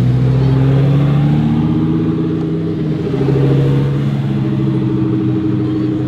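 Lamborghini Huracán Performante's naturally aspirated V10 running at low revs under light throttle as the car pulls away slowly, the pitch dipping slightly about three seconds in.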